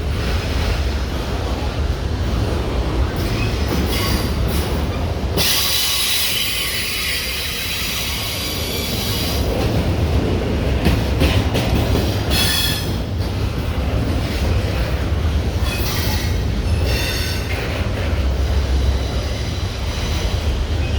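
Train cars rolling past with a steady low rumble. Their wheels squeal on the rails at intervals, longest and loudest from about five to nine seconds in.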